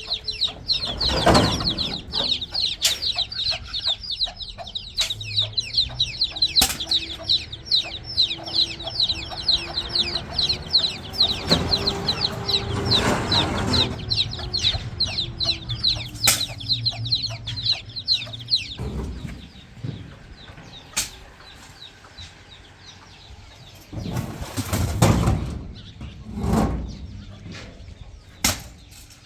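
A bird chirping rapidly and steadily, many short high chirps a second, stopping about two thirds of the way through. Over it come a few louder bursts of rustling noise, the longest around the middle and two more near the end.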